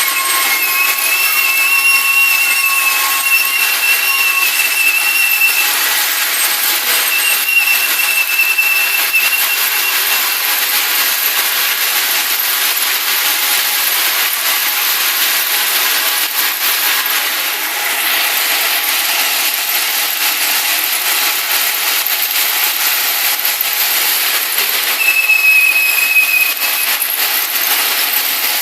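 Ballast work train on the track making a steady harsh metallic grinding noise, with high-pitched squeals that come and go in the first ten seconds and again near the end.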